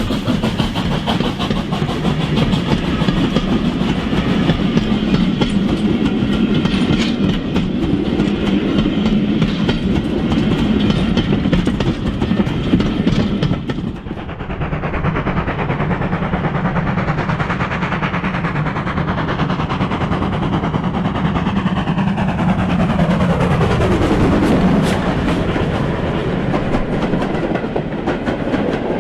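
Train running along the track with rhythmic wheel clatter over rail joints. About halfway through the sound changes abruptly, and later a tone sweeps down in pitch over a few seconds.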